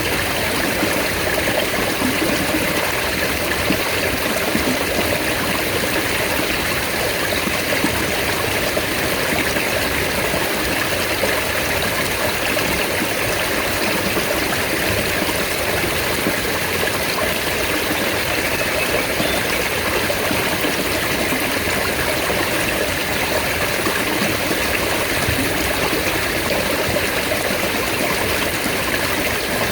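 Mountain stream running steadily, an even rushing of water that does not change.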